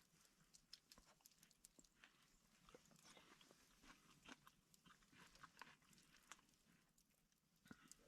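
Very faint, irregular crunching clicks, several a second, with no steady sound beneath them.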